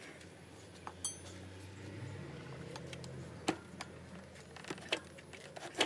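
Metal tools and parts clinking and knocking at irregular intervals during hands-on motorcycle wheel work, with a short ringing metallic ping about a second in and two sharper knocks in the second half.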